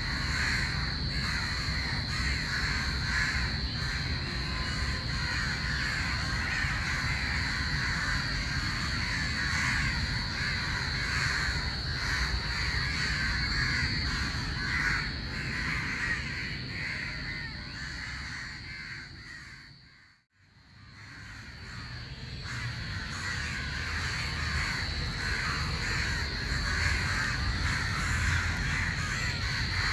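Crows cawing over and over, harsh calls overlapping, with a steady high-pitched whine beneath them. The sound fades out and back in about two-thirds of the way through.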